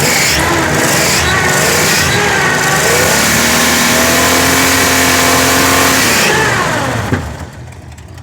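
1979 Pontiac Trans Am's V8 engine being revved: its pitch climbs over the first three seconds, holds high for about three seconds, then falls away as the throttle is released and the engine drops back quieter near the end.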